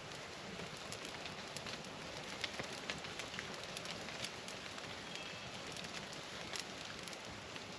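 A wood campfire crackling, scattered sharp pops over a steady hiss of falling rain.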